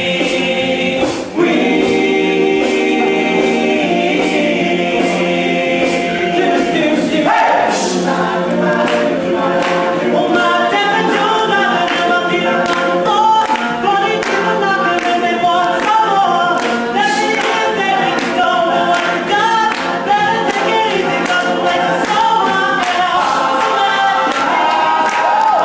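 All-male a cappella group singing in close harmony: held chords at first, breaking briefly just over a second in, then moving melodic lines from about seven seconds in.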